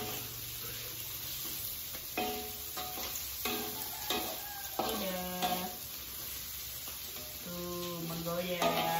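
Chicken pieces frying in hot oil in a wok, sizzling steadily as a metal spatula stirs them. Short pitched, voice-like notes sound now and then over the sizzle.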